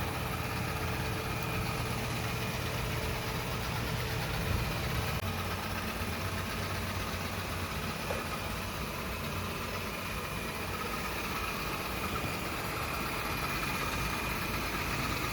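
Yeedi Vac 2 Pro robot vacuum running steadily: a constant motor hum with a steady high whine.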